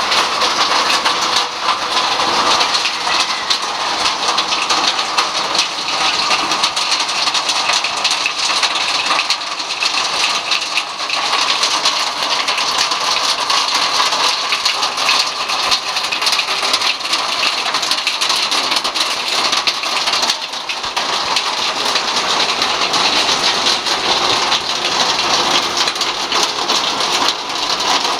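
Heavy typhoon rain pouring down steadily: a dense hiss made of countless fine drop impacts.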